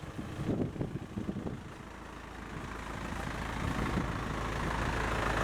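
An engine running, growing steadily louder over the last three seconds or so.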